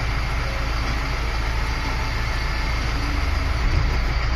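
Diesel engine of a self-loading concrete mixer truck running steadily under throttle while its loading bucket works, a heavy, even engine drone.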